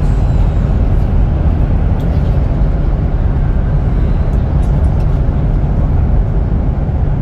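Steady low rumble of a KCIC400AF Fuxing electric multiple-unit train running along the line, heard inside the passenger cabin.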